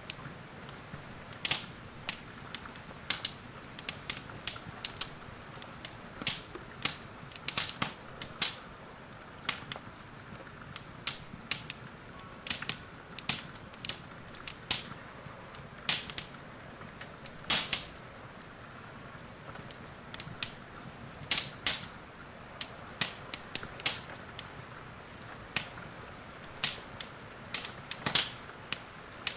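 Wood fire crackling in a fireplace: irregular sharp pops and snaps over a steady hiss of rain.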